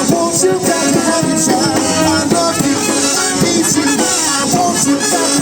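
Live brass-rock band playing an instrumental passage: horns over a steady drum beat, with no lead vocal.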